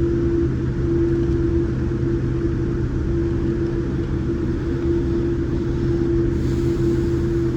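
Steady cabin drone of a Boeing 787 Dreamliner, heard from inside the cabin: a low rumble of engines and airflow with a steady mid-pitched hum on top.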